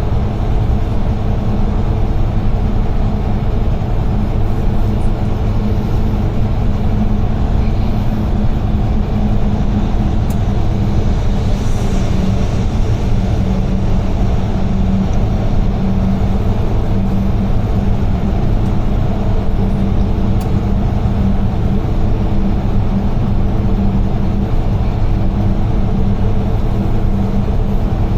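UD Trucks Quon heavy truck driving at a steady speed: a constant low engine drone with road and tyre noise.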